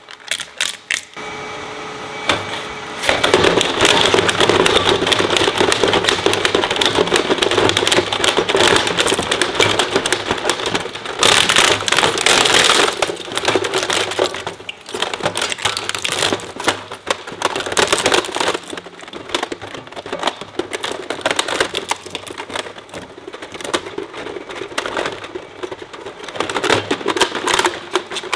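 Industrial shredder chewing up hard plastic toys: a dense run of rapid cracking, snapping and crunching as the blades break the plastic into small pieces. It starts with a few separate cracks and turns into continuous crunching about three seconds in.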